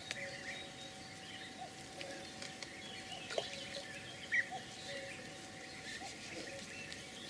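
Faint, scattered bird chirps over quiet background noise.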